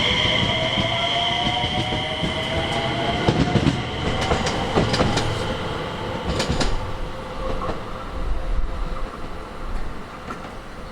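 Electric train moving past on the line, its motor whine rising slowly in pitch while the wheels click over the rail joints. The sound fades away in the last few seconds.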